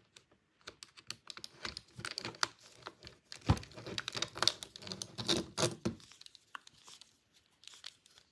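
Two small screws being driven into a plastic Thomas toy train's body: irregular clicks and scraping of a screwdriver and handled plastic parts, the sharpest click about three and a half seconds in.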